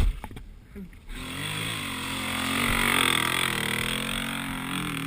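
Dirt bike engine running and revving for several seconds. It starts about a second in and swells in the middle before easing off.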